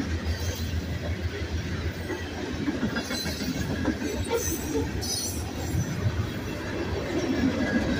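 Mixed freight cars of a Union Pacific manifest train rolling past: a steady low rumble of steel wheels on rail, with a few brief sharper high-pitched sounds from the wheels around the middle.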